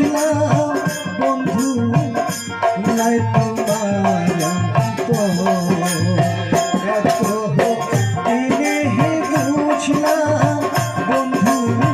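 Instrumental break in a Bengali folk song: percussion keeps a fast, even beat under a melody, with no singing.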